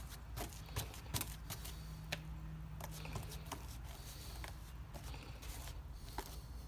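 Faint handling sounds of resin-wet fiberglass cloth being worked by hand: scattered small clicks and soft rustles over a low steady hum.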